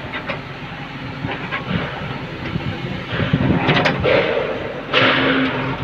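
JCB digging machine's diesel engine running under load while it excavates a footing through rubble, with scattered knocks and clanks of the bucket on broken concrete and a hissy swell of effort about three seconds in and again near the end.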